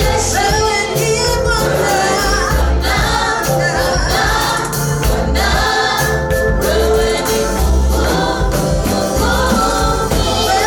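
Gospel choir singing a praise song with instrumental backing and a steady bass beat.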